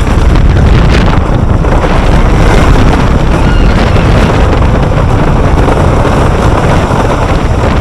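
Wind rushing loudly over the microphone together with the steady rumble of a wooden roller coaster train running over its track, heard from on board.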